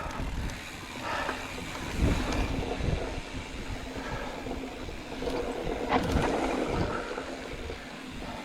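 Mountain bike riding fast down a rocky dirt trail: tyres rolling over dirt and rock with thuds and rattles as the bike hits bumps, about two, three and six seconds in. Wind noise on the helmet camera's microphone.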